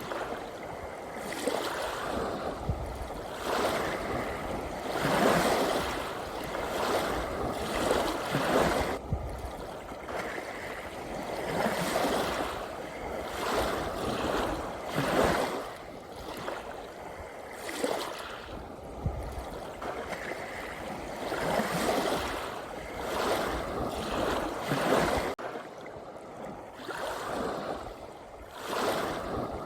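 Gentle ocean waves washing in, the water noise swelling and easing every couple of seconds.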